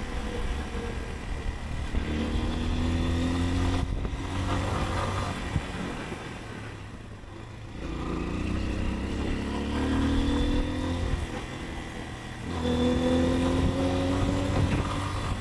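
Motorcycle engine pulling through the gears, its pitch rising in steps with a brief drop at each gear change, and easing off for a couple of seconds near the middle before picking up again.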